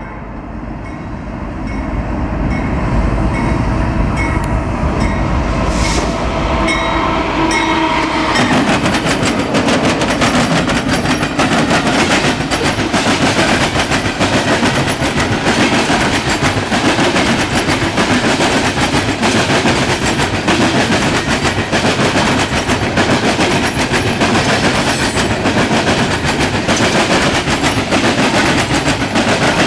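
Norfolk Southern coal train passing: steady machinery tones for the first several seconds, then from about eight seconds in the coal cars roll by with a continuous, dense clatter of wheels over the rails.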